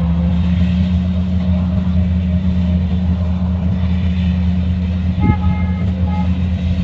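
Kubota DC-105X combine harvester's diesel engine running with a steady, even drone. Faint short higher tones come in about five seconds in.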